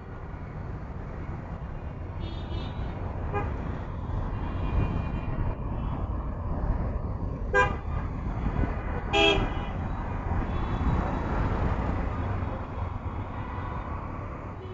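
Road traffic rumbling steadily, with short vehicle horn toots about three times, the loudest two near the middle.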